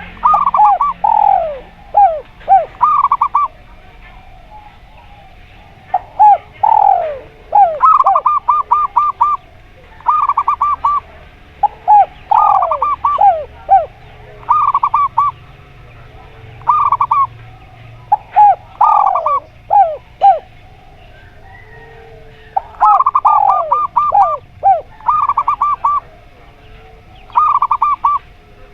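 Zebra doves and spotted doves cooing in turn. Clusters of fast, evenly spaced staccato coos alternate with sweeping falling coos, a phrase every second or two, over a faint low hum.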